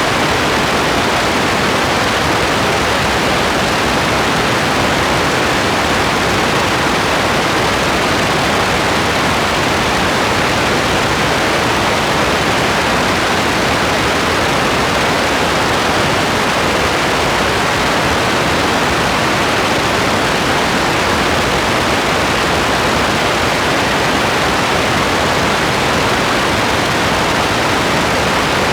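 Steady heavy rain, a dense even hiss with no separate drops standing out.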